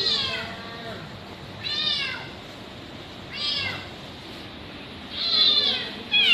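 Kitten meowing repeatedly, five loud high calls about one and a half to two seconds apart, each falling in pitch.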